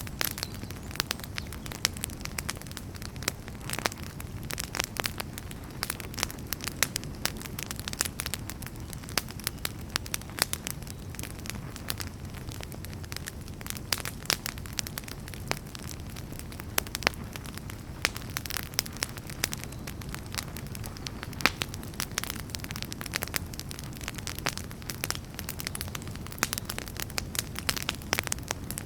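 Wood fire burning in a fireplace: a steady low rumble of flames with many sharp, irregular pops and crackles of burning logs.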